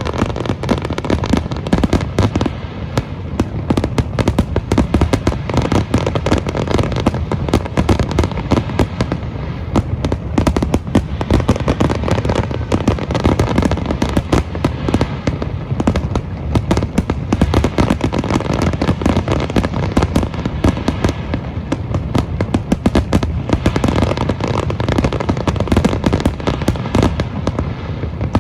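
Fireworks display: a dense, unbroken barrage of bangs and crackles, many reports a second.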